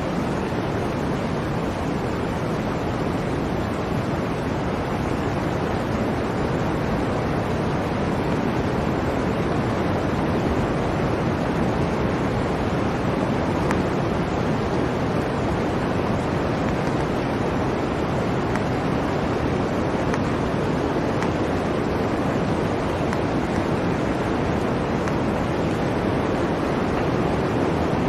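Blizzard wind recording: a steady, unbroken rush of wind noise with no distinct events.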